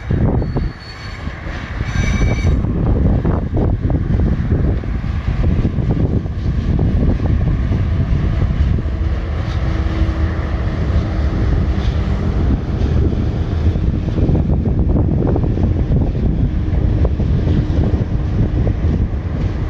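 Empty log train's wagons rolling past on the rails with a steady heavy rumble, with a brief high wheel squeal in the first couple of seconds.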